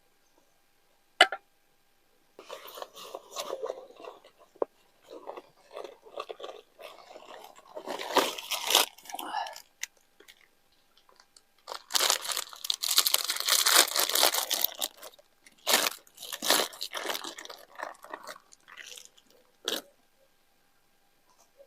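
A person crunching and chewing crisp food close to the microphone, in irregular bursts, loudest about twelve to fifteen seconds in, with a sharp click about a second in.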